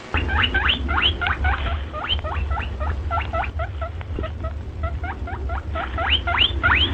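A small animal giving a rapid run of short, high, sweeping calls, several a second, over a low steady hum.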